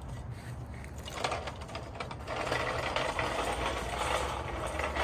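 Radio-controlled scale truck driving the course, its electric motor and gears whirring, the sound getting busier about two seconds in.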